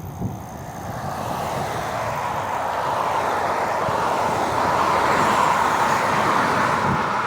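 Car on the move: steady road and wind noise that builds over the first few seconds and then holds.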